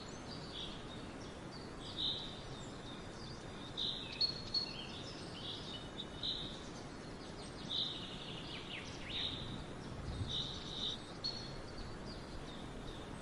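Small woodland birds singing and calling: many short, high chirps and trills from several birds over a steady background hiss.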